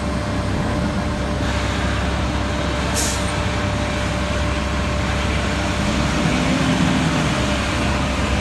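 Heavy diesel construction machinery running steadily, with a short air-brake hiss about three seconds in.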